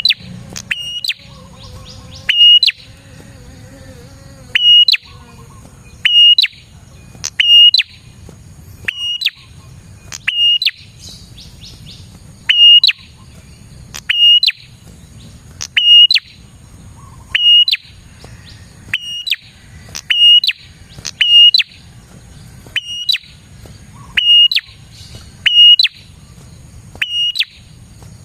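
Prenjak (a prinia) calling vigorously: loud, sharp, high notes repeated about every second and a half, each with a low thud beneath it. A faint steady high tone runs underneath.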